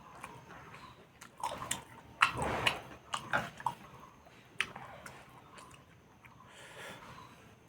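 Close-miked biting and chewing of food, irregular wet clicks and smacks, with the loudest bite about two seconds in.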